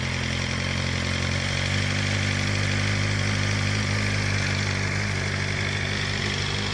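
BMW M1000RR's inline-four engine idling steadily through an Akrapovič exhaust, still on its raised cold-start idle that will drop once the engine warms up.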